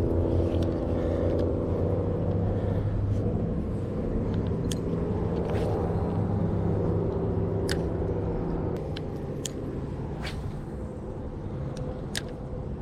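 A motor engine's low, steady hum that fades off about eight seconds in, with a few faint sharp clicks over it.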